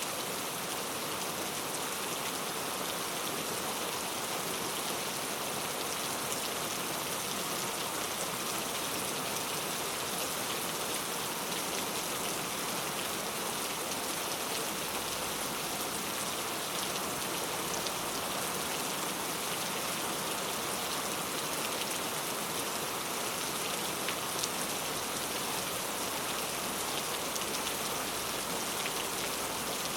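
Heavy rain falling steadily on mango tree leaves, a dense even patter of drops.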